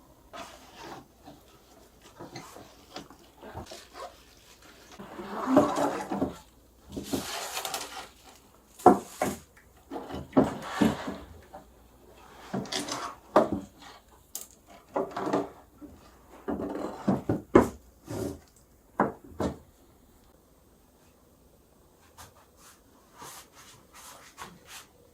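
Wooden knocks, rubbing and scraping from a cello being handled and worked on, irregular and busiest through the middle, thinning to a few faint clicks near the end.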